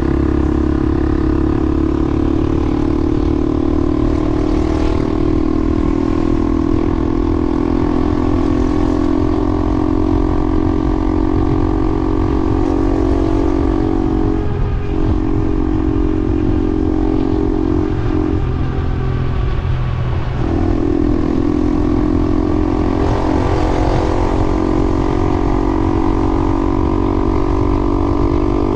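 A vehicle's motor running at steady cruising speed: an even, pitched whine over low wind and road rumble. The tone briefly drops out twice, about halfway through and again a little later, as the throttle eases.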